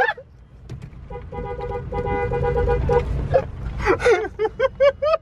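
A car horn sounds one steady note for about two seconds over a low engine rumble. Short squeaky vocal sounds follow near the end.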